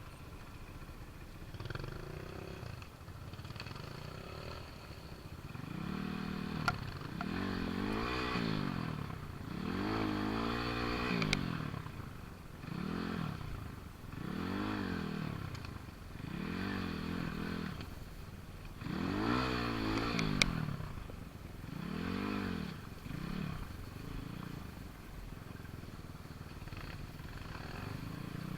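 Small motorcycle engine revved up and down over and over, its pitch rising and falling about every two seconds, with a few sharp clanks in between.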